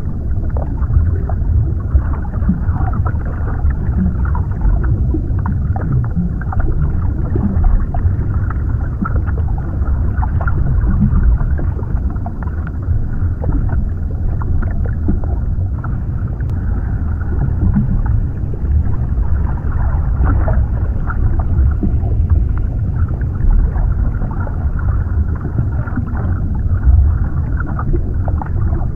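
Underwater ambience: a steady low, muffled rumble of water with faint bubbling and gurgling through it.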